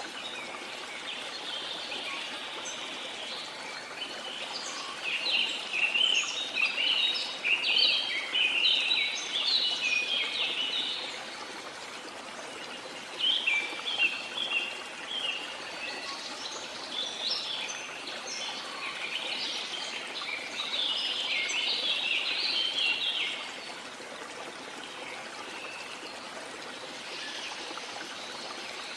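Steady rush of falling water under birds singing in quick, chirping phrases. The birdsong comes in several bursts through the first two-thirds and drops away near the end, leaving the water alone.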